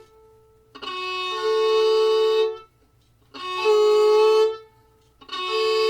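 Fiddle bowing a double stop three times in slow, separate strokes with short gaps. Each stroke starts on one note and the bow then rolls onto the neighbouring string, so a second, higher note joins and the two ring together.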